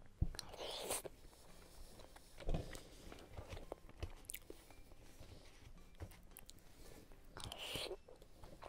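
Close-up eating sounds: a person chewing, with small mouth noises and short clicks. A plastic spoon scoops food from a paper bowl about four seconds in.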